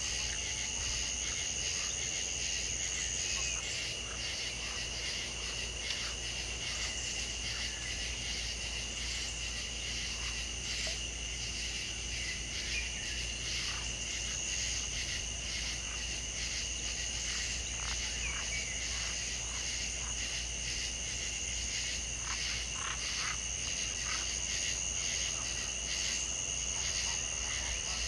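Chorus of insects and frogs: a steady high-pitched trilling with many short clicking calls scattered through it, over a low steady hum.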